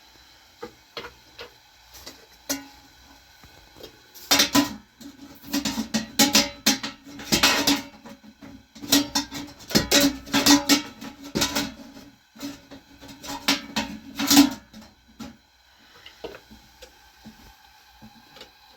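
A metal utensil scraping and clanking against a cooking pot in a quick, irregular run of loud strokes. The pot rings under them. The strokes start about four seconds in and stop near fifteen seconds, with only a few faint ticks around them.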